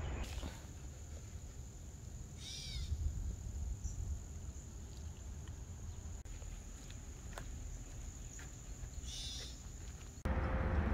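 Outdoor summer ambience: a steady high-pitched insect trill, with a bird calling briefly twice, about two and a half seconds in and again near nine seconds, over a low background rumble. Near the end the trill cuts off and a louder rushing background noise takes over.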